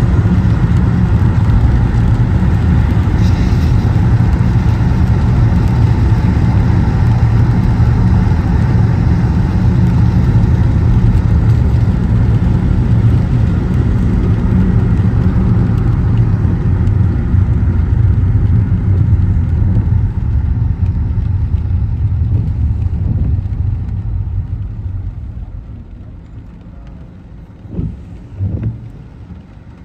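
Car driving on rain-soaked streets: steady low road and tyre noise with a hiss of water. It dies down near the end as the car slows, and two short bumps follow.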